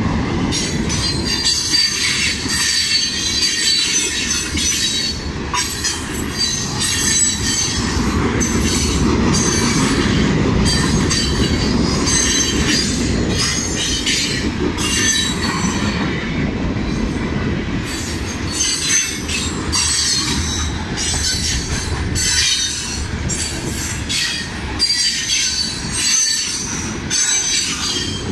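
CSX freight train cars rolling past at a grade crossing: a steady low rumble with high-pitched wheel squeal coming and going, and a continuous clatter of wheels over the crossing and rail joints.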